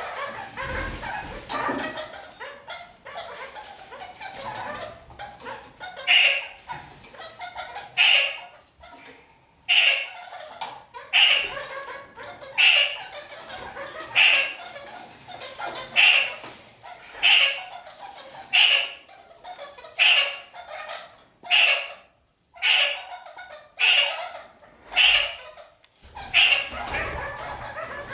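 Red-crowned kakariki (parakeet) calling: softer chattering for the first few seconds, then a loud, short call repeated about every one and a half seconds, some fourteen times.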